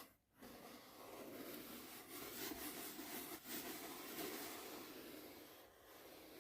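Soft brush strokes against the microphone: a faint, continuous brushing hiss with a brief break just after the start.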